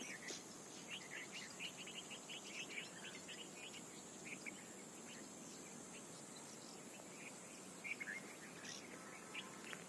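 Faint natural ambience: a steady high insect drone under many short bird chirps, thickest in the first half and picking up again near the end.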